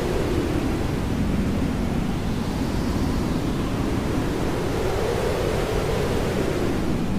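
Hair dryer running steadily as white noise, a constant hiss-and-rush without pauses, with a slow rise and fall in its pitch every few seconds.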